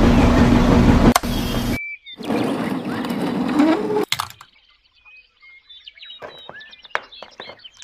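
A loud, steady motor-like rumble cuts off abruptly about two seconds in. A second noisy stretch follows and ends in a click, then small birds chirp with quick sweeping calls over near quiet.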